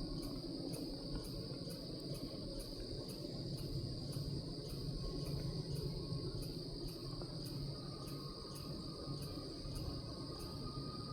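Insects chirring steadily at a high pitch in an even pulse, over a continuous low rumble from the distant GE diesel locomotives of a heavy freight train working hard upgrade. A faint steady whine joins about halfway through.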